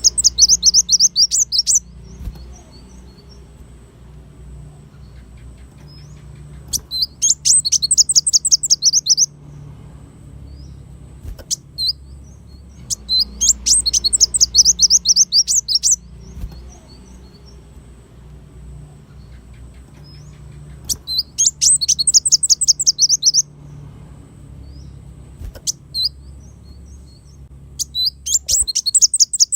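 Kolibri wulung sunbird singing: bursts of a rapid, high, trilled song about two seconds long, repeated five times, with soft single chips between them. A low steady hum runs underneath.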